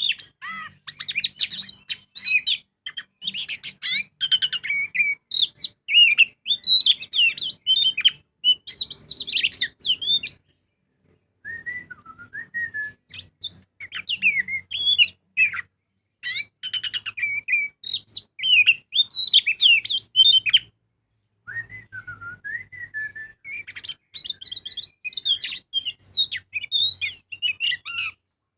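Oriental magpie-robin in full song: a long, varied run of whistles, rapid trills and chattering phrases. It breaks off briefly about a third of the way in and again about two-thirds in, then resumes with lower whistled notes.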